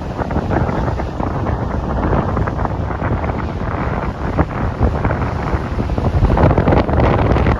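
Wind buffeting the microphone: a gusty rumbling noise that grows louder near the end.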